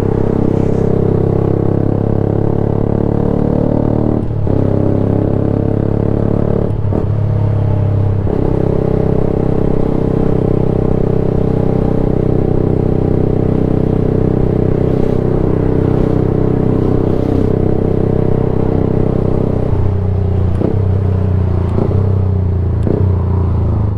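Yamaha YZF-R sportbike engine running loud through a Black Widow slip-on can with no baffle, in place of a proper exhaust, as the bike rides along. The engine note breaks briefly about four and seven seconds in and shifts again near the end.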